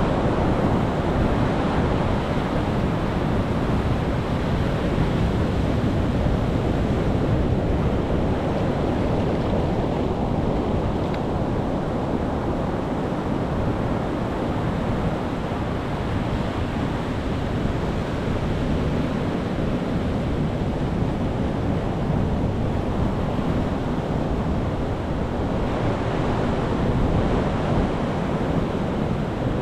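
Ocean waves washing onto a shore: a steady, unbroken rush of surf with slow, gentle swells in strength.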